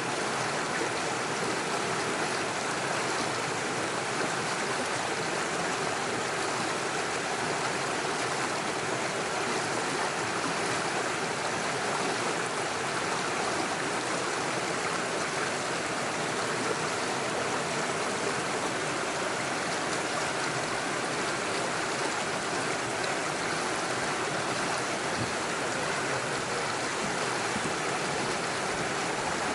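Small rocky stream rushing and splashing steadily over stones and little falls, a continuous even water noise.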